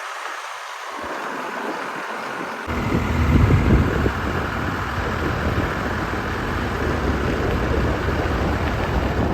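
Tractor engine running, with wind noise on the microphone; a low rumble gets much louder about two and a half seconds in and stays.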